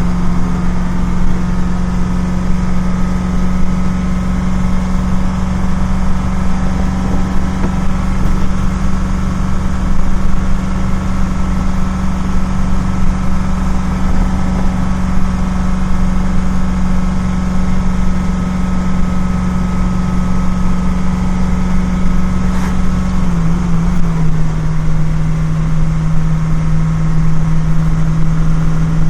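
Grain truck's engine running steadily under load on the road, with road and tyre noise; about 23 seconds in the engine note steps down a little in pitch and holds there.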